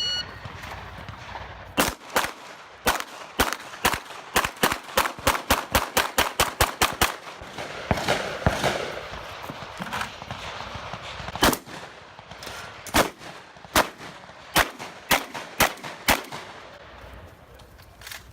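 Gunfire from a competitor's firearm: a single shot, a few spaced shots, then a fast string of about a dozen shots at roughly four a second, a pause, and seven more shots at a steadier pace.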